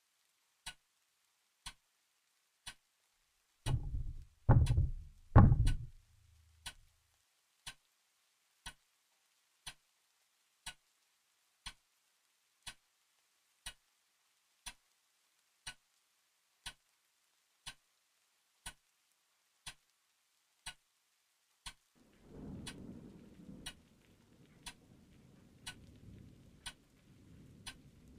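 A clock ticking about once a second. About four seconds in, three heavy knocks come in quick succession, and from about 22 seconds a low, uneven rumble sets in under the ticking.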